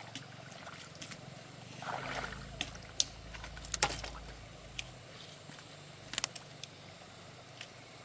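Irregular sharp knocks and clicks, the loudest about three seconds in and a small cluster near four seconds, with a brief rustle about two seconds in.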